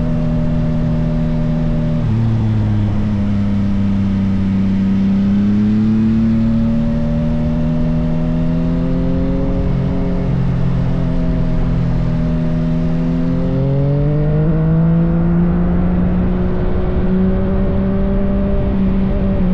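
Yamaha XSR900 inline-three engine breathing through an M4 full aftermarket exhaust, running continuously with its note rising and falling as the throttle changes. The pitch drops suddenly about two seconds in and again about two-thirds of the way through.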